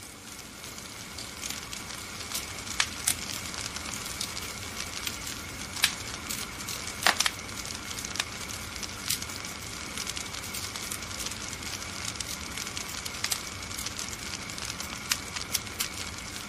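Wood fire in a fireplace crackling steadily, with scattered sharp pops, the loudest about halfway through.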